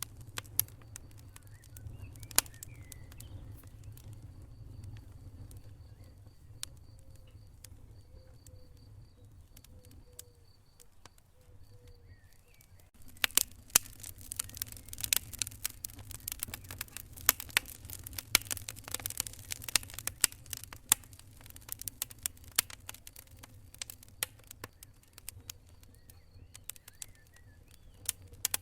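Wood fire burning in a fireplace, crackling and popping over a low steady rumble. Scattered pops at first, then much denser crackling from about halfway in.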